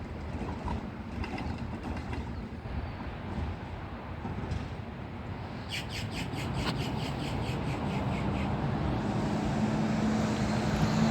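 Diesel garbage truck (a Heil Rapid Rail side loader) approaching, its engine getting steadily louder, with its engine hum coming through clearly in the last few seconds. A quick run of clicks sounds about six seconds in.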